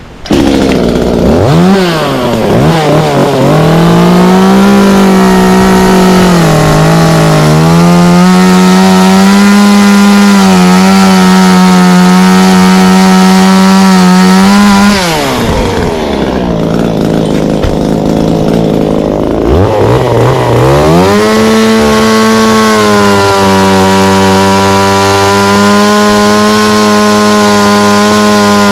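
Ported Echo CS-355T two-stroke chainsaw with a quarter-pitch chain, started up and run at high revs. The engine note drops sharply about halfway, then climbs back and holds high again.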